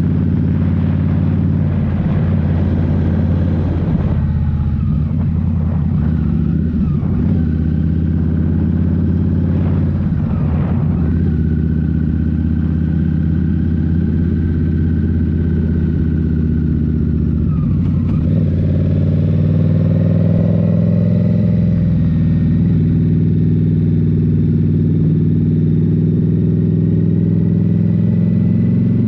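Indian Scout Rogue's 69 cubic-inch V-twin with a Rinehart slip-on exhaust, running under way. The engine note rises and falls with the throttle several times, then holds a steadier, slightly higher note for the last third.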